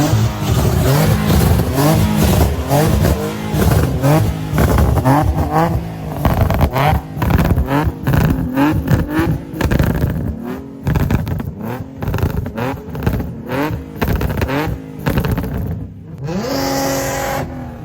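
Car engines revved hard again and again, the pitch rising and falling in quick repeated blips. Near the end the revving gives way to a steadier held engine note with a high whine over it.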